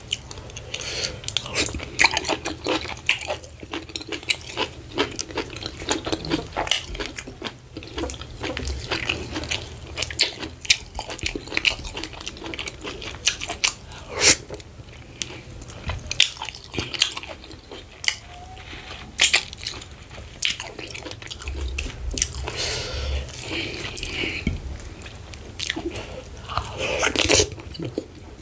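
A person chewing mouthfuls of oatmeal fufu with slimy ogbono soup, eaten by hand: wet smacking and many sharp mouth clicks.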